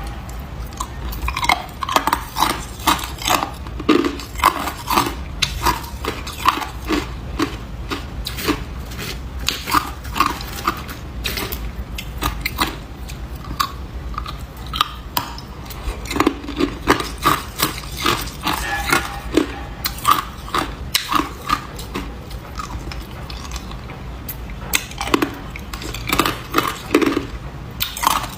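A person biting and chewing ice: a continuous run of sharp, irregular crunches and cracks.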